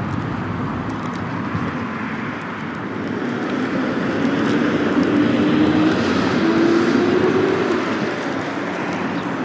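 Road traffic running steadily, with a vehicle passing: its engine grows louder through the middle and fades again near the end.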